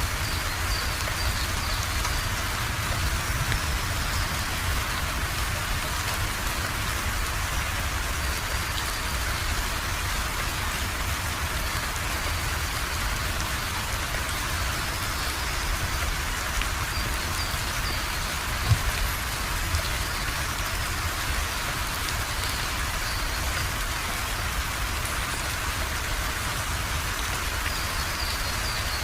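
Steady rainfall, drops pattering on a surface, with one sharper louder tap about two-thirds of the way through.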